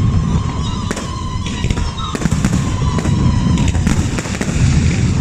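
Fireworks display: a continuous low rumble of shells going off, with many sharp bangs and cracks scattered throughout.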